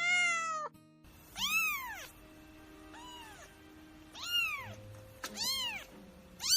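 Kitten meowing repeatedly: about six separate high meows a second or so apart, each rising then falling in pitch, over soft background music with held notes.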